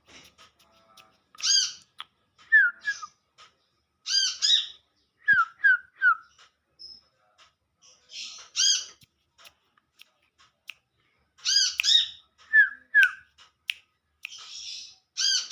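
Brown-throated sunbird (kolibri kelapa) calling: sharp, arched chirps repeated in short bursts every few seconds.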